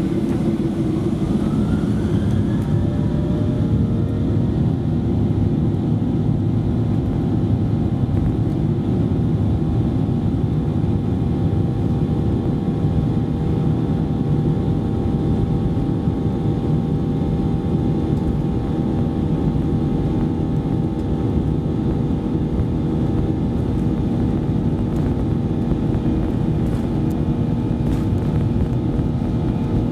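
Boeing 737-800's CFM56-7B turbofan engines heard from inside the cabin at takeoff, their whine rising in pitch over the first few seconds and then holding steady at takeoff thrust over a loud, continuous rumble.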